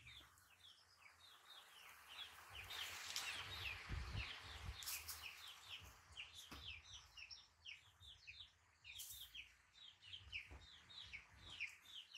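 Faint birds chirping: a steady run of short, high, falling chirps, several a second. There is a soft rustle with a few low thumps a few seconds in.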